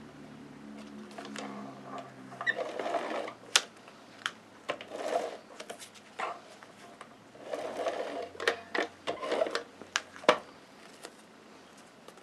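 Paper pieces being handled and glued down on a scrapbook page: scattered sharp clicks and taps from the paper and adhesive, with several short soft rubbing sounds.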